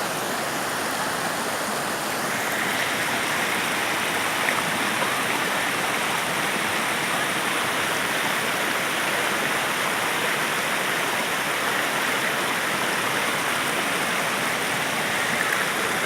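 Steady rush of falling water from a waterfall, a continuous even wash of sound that grows slightly brighter about two and a half seconds in.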